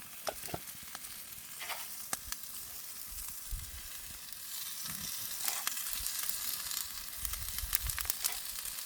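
Thick pork neck sizzling on a stone slab heated in a wood fire, a steady hiss with scattered sharp crackles that come more often in the second half.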